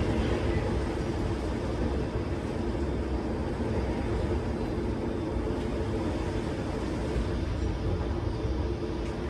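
Strong windstorm gusts blowing steadily, a dense rushing noise heaviest in the low end.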